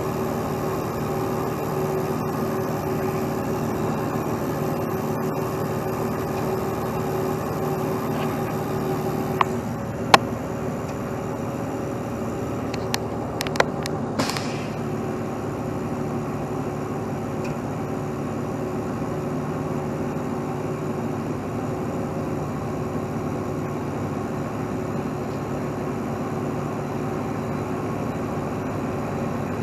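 Heavy truck diesel engine running steadily, its note dropping slightly about a third of the way in, with a few sharp metallic clicks and knocks over the following few seconds.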